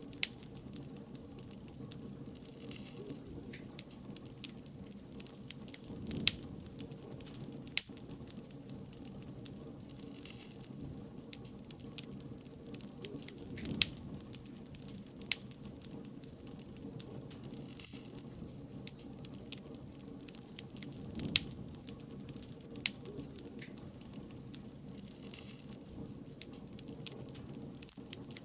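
Wood bonfire crackling: irregular sharp pops and snaps over a low, steady rush of the flames, which swells a little every several seconds.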